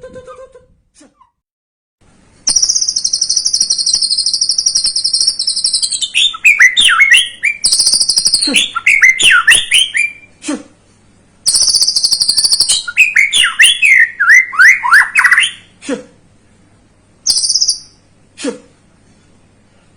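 White-rumped shama (murai batu) singing. A long, high, rapid buzzing trill is broken off into a fast run of sweeping notes, and the phrase comes twice. A few short single notes follow near the end.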